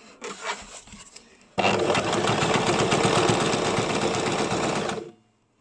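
Electric home sewing machine stitching a straight seam in one continuous run of about three and a half seconds, stopping abruptly; it is preceded by light clicks and fabric handling.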